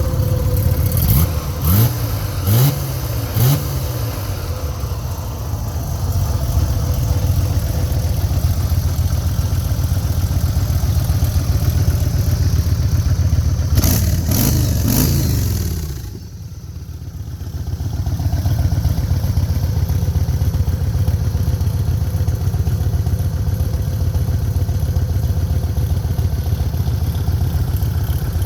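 Motorcycle engine idling, with three quick throttle blips in the first few seconds and another burst of revving about halfway. The sound drops away briefly just after that, then settles back to a steady idle.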